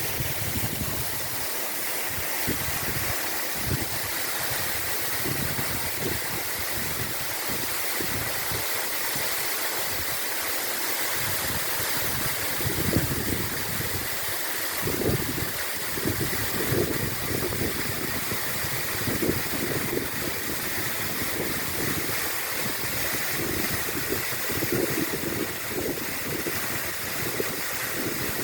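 Waterfall: a steady rush of falling water, with wind buffeting the microphone in irregular low gusts.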